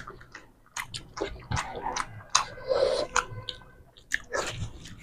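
Close eating sounds: chewing and wet mouth clicks and smacks as rice and curry are eaten by hand, coming as a string of short irregular clicks.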